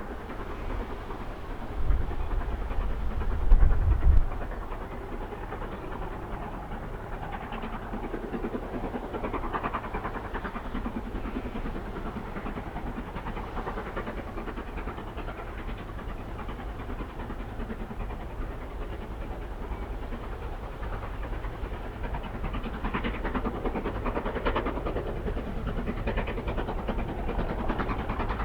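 Train running on the rails, a steady rumble with wheel clatter that swells in the second half. Short gusts of wind buffet the microphone in the first few seconds.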